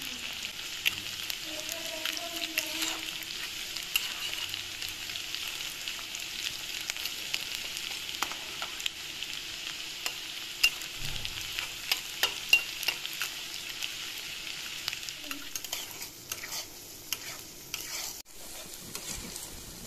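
Chopped onions with whole spices frying in hot oil in a non-stick kadai: a steady sizzle, with the spatula clicking and scraping against the pan as they are stirred. Near the end the sizzle is quieter as ground spice paste is fried and stirred.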